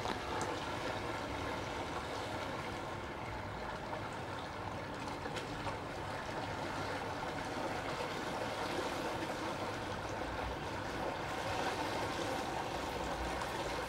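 Steady rush and trickle of the Rhine's water running past a small river boat during the crossing.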